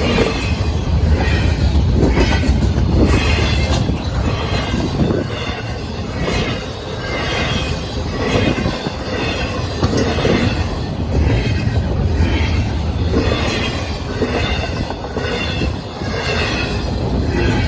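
Norfolk Southern freight train rolling past, its wheels running over the rails in a rhythm that repeats about once a second.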